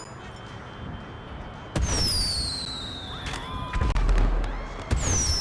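Fireworks going off: a sharp bang nearly two seconds in brings a high whistle that falls in pitch over about a second and a half, followed by more bangs and a low rumble. Another bang and falling whistle come near the end.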